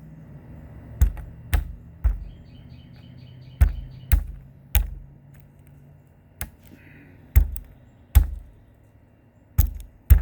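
Peanuts in the shell being struck hard to crack them: about ten sharp knocks, in clusters of two or three. A bird gives a quick run of chirps a few seconds in.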